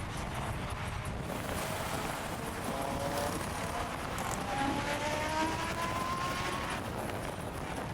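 Car engine noise. A loud low rumble fades away at the start, then a fainter engine hum rises slowly in pitch through the middle, like a car accelerating away.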